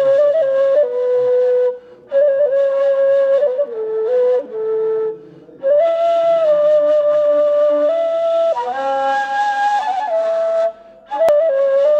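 Solo ney, the Turkish end-blown reed flute, playing a slow melody of held, breathy notes that step between pitches, with brief pauses for breath.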